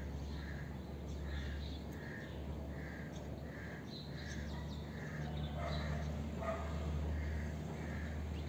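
A bird repeats a short call steadily, about three calls every two seconds, with other bird calls briefly about two-thirds of the way through. Under it runs a low steady drone from the distant C-130's four turboprop engines as it climbs away.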